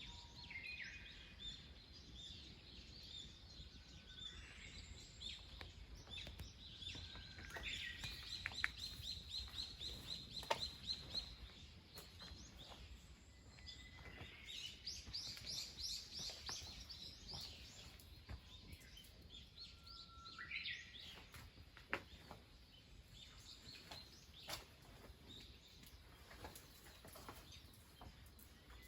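Wild birds singing and chirping, with several fast trilled phrases, over faint background noise. A few sharp clicks stand out now and then.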